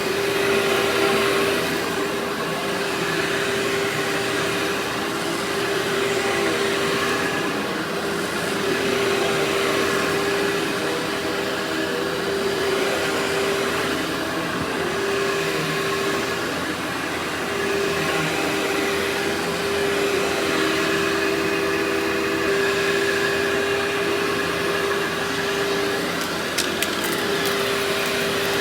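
Workhorse vacuum cleaner running steadily: a constant motor whine over a rushing airflow hiss, the pitch dipping slightly now and then, with a few faint clicks near the end.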